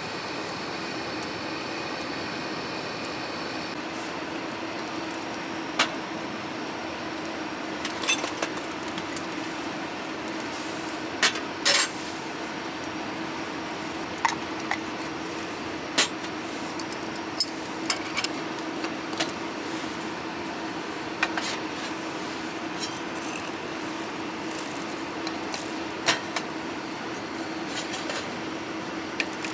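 Scattered sharp clinks and knocks of small hard objects, a dozen or so spread through the half-minute, over a steady hiss with a low steady hum.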